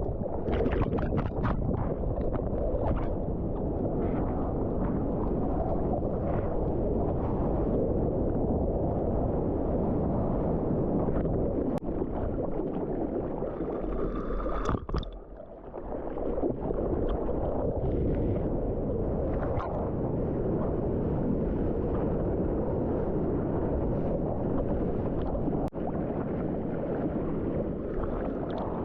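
Sea water sloshing and splashing, with wind rumbling on the microphone. The sound dips away briefly about halfway through, then comes back.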